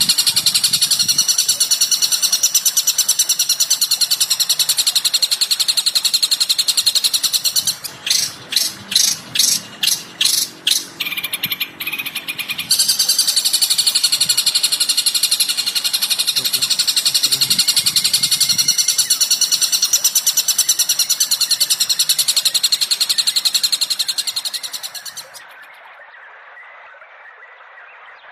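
Songbird calls from a masteran bird-song tutoring recording: a dense, rapid, high-pitched chatter. About eight seconds in it gives way to a run of about nine separate sharp calls. The chatter then returns and fades out near the end, leaving faint hiss.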